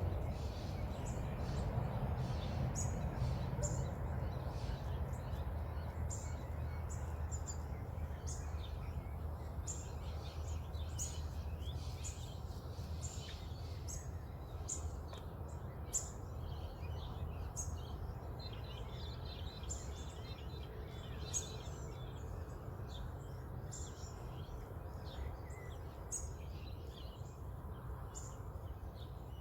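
Dawn bird song: many short, high chirps and calls from several birds throughout, over a steady low background rumble.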